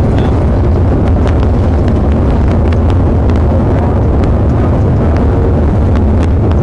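Loud, steady engine and road rumble of a car driving at speed, with scattered faint clicks.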